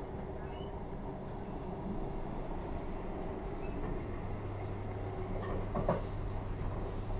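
Inside a moving Transperth Bombardier B-series electric train: the steady low rumble of the carriage running on the track, with faint short squeaks. A steady low hum comes in about four seconds in, and there is a short knock near six seconds.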